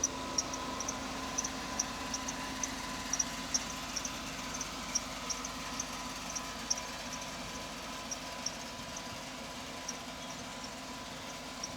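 Steady low hum of an idling truck engine, with faint short high-pitched chirps repeating irregularly a couple of times a second.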